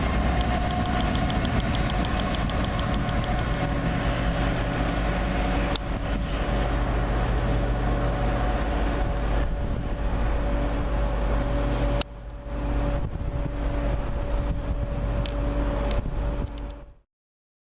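A train at a station platform, running with a steady low rumble and a held hum, with a few sharp clicks. The sound drops briefly about twelve seconds in and then cuts off abruptly near the end.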